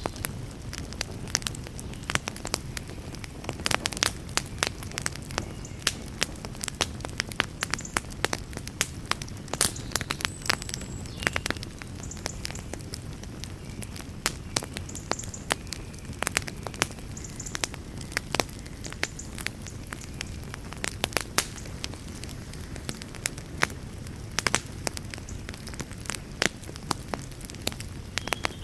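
Wood campfire crackling, with irregular sharp pops and snaps, over a steady low wash of the sea.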